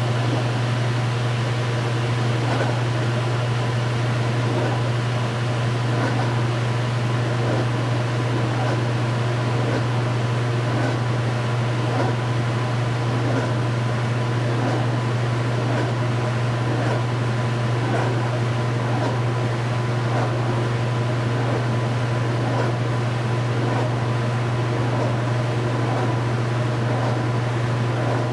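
2015 Speed Queen 8 Series top-load washing machine running mid-cycle: a steady low motor hum with a faint swish repeating roughly once a second.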